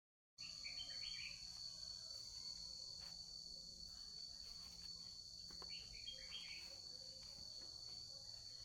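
A faint, steady, high-pitched insect chorus that starts suddenly a moment in after dead silence. Short bird chirps come about a second in and again around six seconds.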